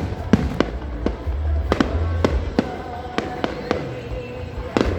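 Aerial fireworks bursting in a dense, irregular volley of sharp bangs, several a second, over a low rumbling boom.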